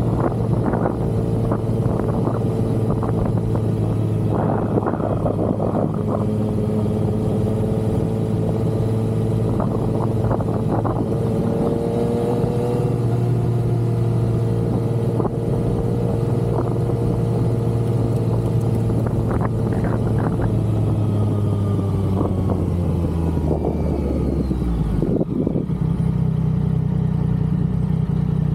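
Yamaha XSR900's inline three-cylinder engine running at a steady road speed with wind on the microphone. Near the end the engine note falls as the bike slows, then settles to a low, steady idle-like note.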